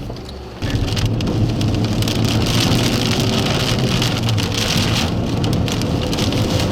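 Rain on a moving car, with the car's engine and tyre noise as it drives down the road. The noise comes in suddenly about half a second in, then holds steady.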